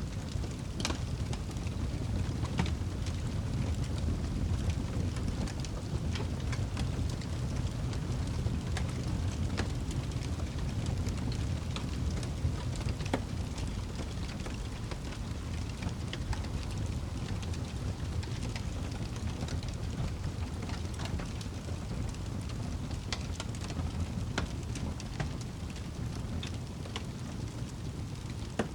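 Campfire crackling, with sharp pops and snaps at irregular moments over a steady low rushing rumble.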